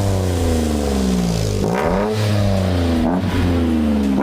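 Engine of a Daihatsu Ayla/Toyota Agya city car revved through a modified aftermarket exhaust in repeated blips. Each rev climbs quickly and then falls away slowly, about three times.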